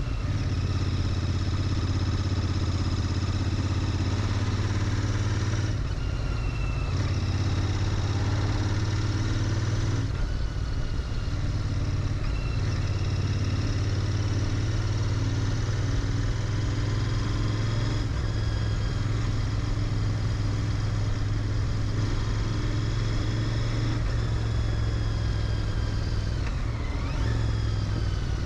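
Royal Enfield Interceptor 650's parallel-twin engine running through its stock exhaust while the bike is ridden, holding a steady low note with small shifts in engine speed about six and ten seconds in.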